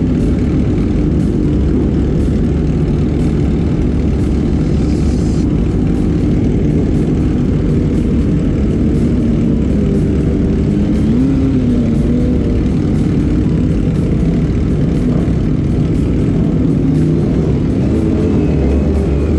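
Sport motorcycle engines with aftermarket exhausts running steadily, with a brief rise and fall in engine pitch about eleven seconds in.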